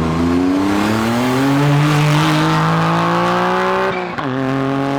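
A car accelerating hard away, its engine revs climbing steadily for about four seconds, then a quick gear change drops the revs before it pulls again.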